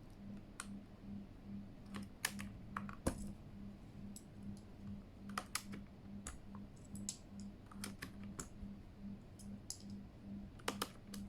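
Keys being typed on a Keychron K8 mechanical keyboard fitted with a new, lighter and shorter set of Mario-theme keycaps: sharp clacks in irregular short runs.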